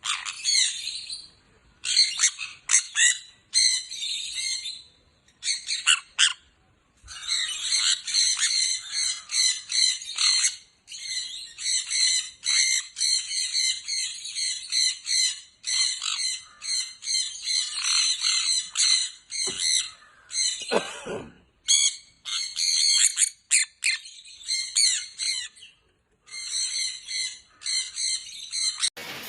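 A crowd of caged pet birds chirping and squawking in quick, overlapping bursts, broken by brief pauses.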